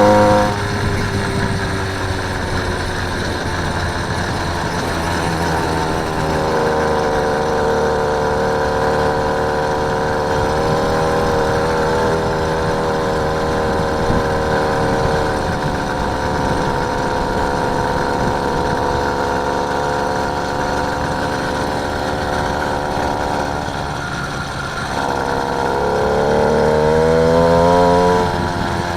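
Motorised bicycle's small engine running while under way, its pitch mostly steady. Near the end it revs up, rising in pitch and getting louder, then drops back.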